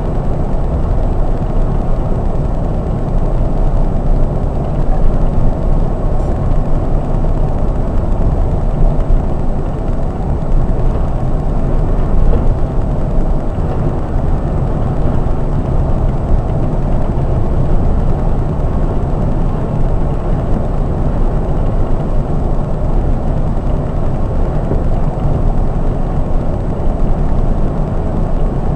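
Scania K420-chassis Marcopolo 1800 DD double-decker coach under way on the highway: a steady low rumble of engine and road noise, with no rise or fall in engine pitch.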